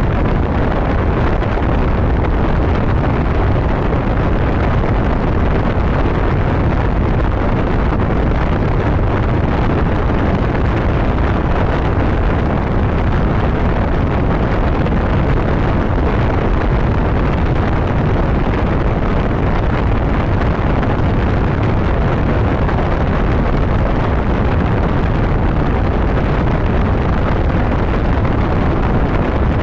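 Steady wind rush on the microphone of a motorcycle riding at road speed, with the bike's running noise underneath.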